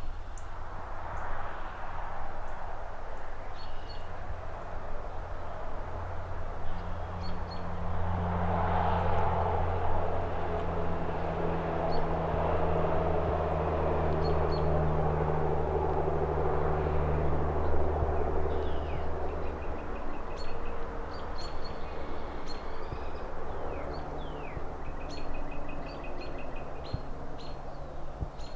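City ambience: steady distant traffic with a low engine rumble that builds about a quarter of the way in and fades by about two-thirds through. Birds chirp and trill over it, more often in the second half.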